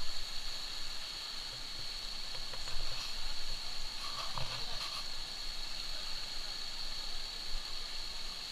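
Steady high-pitched hiss over faint outdoor water noise by a stream, with a few light knocks and scrapes around the middle.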